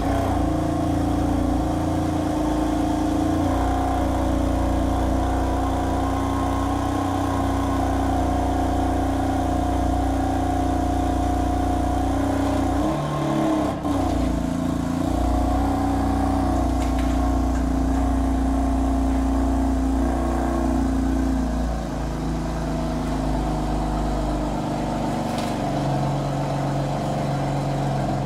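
Car engine running through a loud aftermarket exhaust, holding a steady speed, with a brief dip and rev about halfway through.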